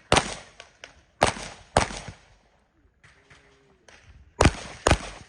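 Handgun shots: five sharp cracks, each with a short echo. One comes right at the start, two follow about a second in, half a second apart, and another two come near the end, half a second apart.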